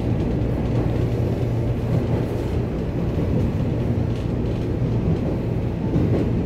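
Cabin noise of a Taiwan Railways EMU800-series electric commuter train running through the underground line: a steady low hum over a rumble.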